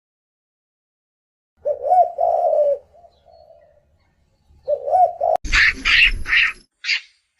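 Low bird cooing, two calls, the first about one and a half seconds in and the second about five seconds in. After a sharp click, a quick run of short high-pitched animal calls closes the window.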